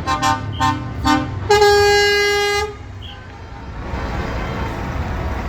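Truck horns: four quick short toots, then one longer blast of about a second on a higher-pitched horn, over the low rumble of running engines.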